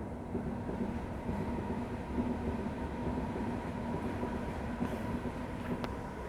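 A train running past on the line below, a steady rumble with a humming tone held through it.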